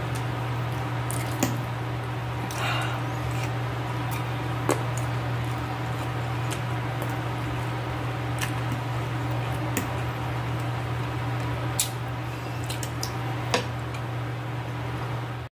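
Close-miked eating sounds: wet chewing of soft boiled beef and vegetables, with scattered sharp clicks of a metal fork against the plate, over a steady low hum.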